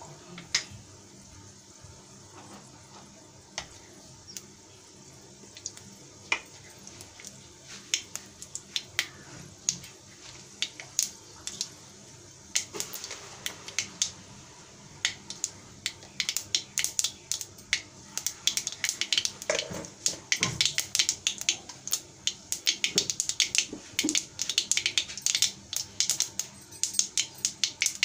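Vegetables frying in hot oil: scattered crackles and pops, few at first, then coming thick and fast from about halfway through.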